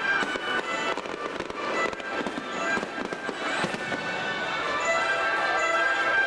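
Aerial fireworks shells bursting one after another, sharp bangs scattered mostly through the first few seconds, with music playing throughout.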